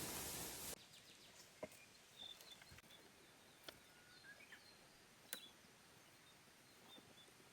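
Faint bird chirps with a few sharp clicks in near silence; a steady hiss cuts off suddenly under a second in.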